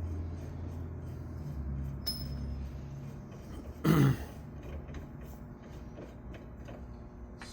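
A low, steady machine hum, with one short, loud burst about four seconds in, like a cough.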